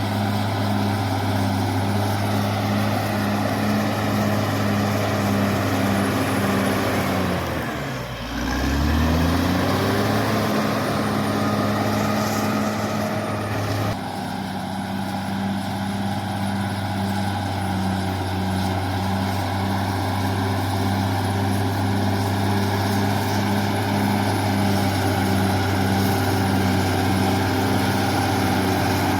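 Caterpillar D6R XL bulldozer's diesel engine running steadily. About eight seconds in, the engine speed drops sharply and then climbs back up.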